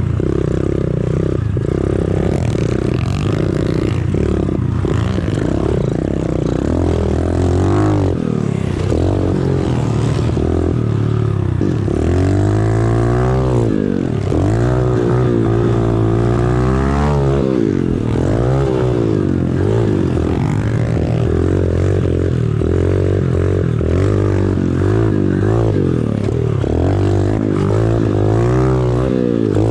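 Small single-cylinder four-stroke pit bike engine being ridden hard, revving up and easing off again and again, its pitch climbing and dropping with each throttle change.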